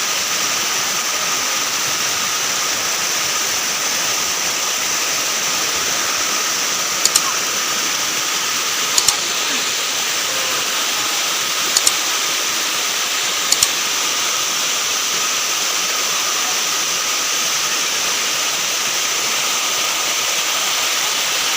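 Waterfall rushing steadily, with four short double clicks in the middle stretch.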